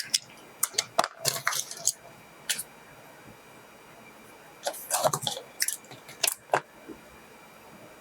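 Handling noises: a run of short clicks and rustles in two bursts, one at the start and one about five seconds in, over a faint steady high whine.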